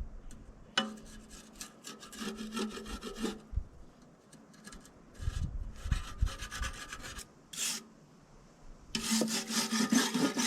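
Quick rasping strokes of a hand tool scrubbing crusted grime off an old hydraulic tank, in several spells of a second or two with short pauses between.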